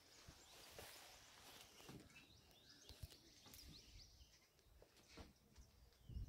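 Near silence with faint, scattered bird chirps and a few soft low knocks.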